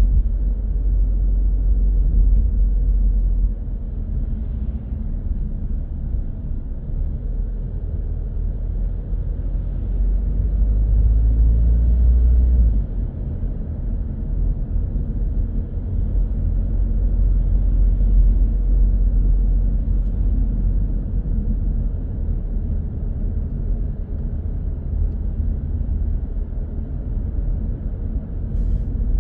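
A car driving through city traffic: a steady low rumble of engine and road noise. It swells louder a few times and falls back sharply about thirteen seconds in.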